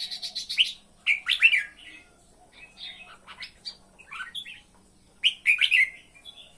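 A bird chirping in quick runs of short, high notes, coming in bursts with pauses between. The loudest bursts come about a second in and again near the end.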